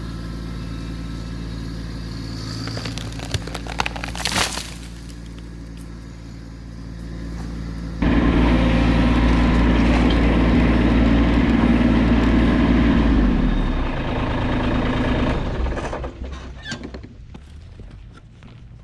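Kubota tractor's diesel engine running steadily, then much louder under load from about eight seconds in as it pulls a strapped section of willow tree. The engine drops back after about thirteen seconds, leaving scattered crackling near the end. There is a brief sharp crackle about four seconds in.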